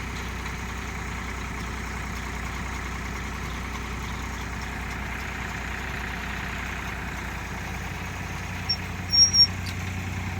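Tractor engine running steadily, most likely driving the post hole digger, its low note shifting about eight and a half seconds in. A few short, loud, sharp sounds with a high squeak come about nine seconds in.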